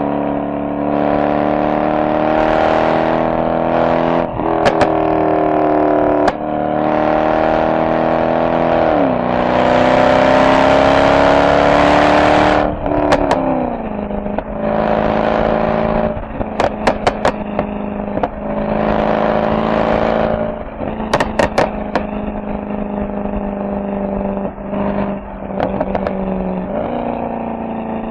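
Mercedes SL63 AMG V8 exhaust under a spirited drive: the engine note climbs through the revs and drops at each gear change several times, with clusters of sharp pops and crackles on lifting off and downshifting.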